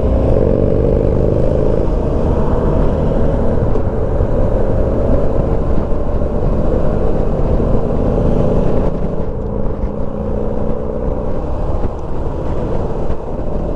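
Motorcycle on the move, its engine running under load beneath heavy wind rush. The engine note climbs in the first couple of seconds as it accelerates.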